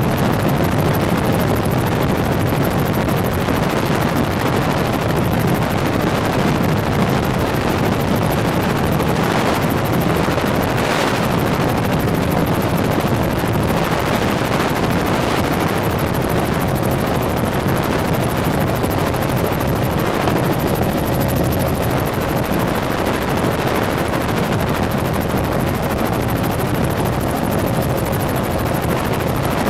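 Helicopter running steadily in flight, a loud, even noise of engine and rotor with no change in level.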